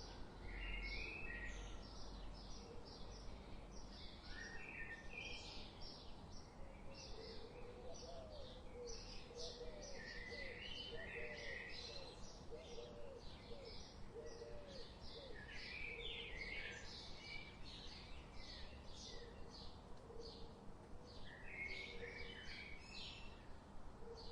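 Many birds chirping and twittering together: a dense, continuous run of short high calls. A string of lower, curving notes joins from about a third of the way in until past the middle.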